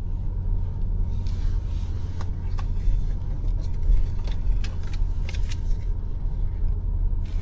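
BMW X5 M50i driving, a steady low rumble of engine and road noise, with a few light clicks between about one and five and a half seconds in.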